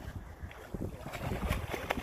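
Wind buffeting the microphone beside a river, a low rumble with a few sharp crackles about a second and a half in.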